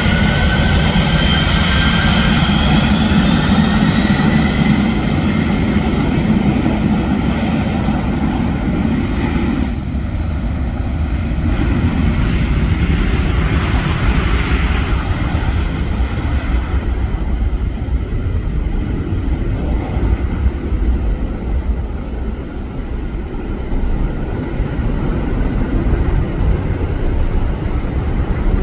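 Jet aircraft engines running loud, with a whine that rises in pitch over the first few seconds over a broad rush. In the second half the higher part of the sound thins out, leaving a low rumble.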